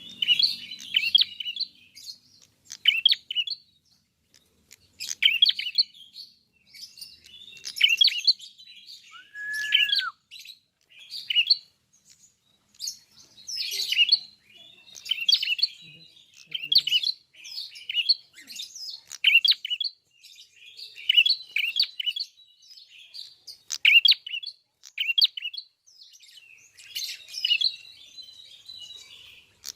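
Ashy tailorbird (prenjak kepala merah) in full song: short bursts of rapid, high chirping phrases, repeated about once a second with brief pauses. About nine seconds in there is a single clear whistled note.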